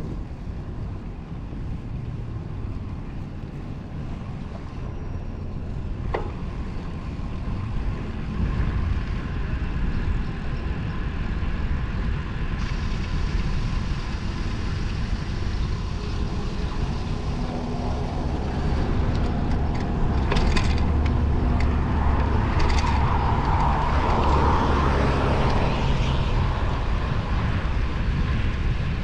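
Road traffic heard from a moving bicycle, with steady wind noise on the microphone. A motor vehicle passes in the second half, its engine growing louder, and a few sharp clicks come through.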